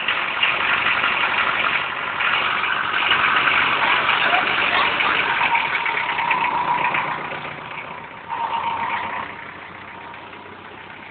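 Mazda truck's engine running, loud for the first several seconds, then dropping back, with a brief rise about eight seconds in before settling quieter.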